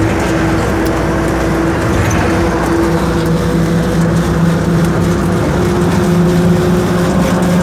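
Car engine running at a steady idle, a continuous low hum with no rises or breaks.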